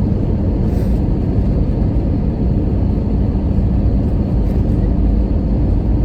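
Airbus A320 cabin noise during landing: a loud, steady, low rumble of the jet engines and rushing air, heard from inside the cabin.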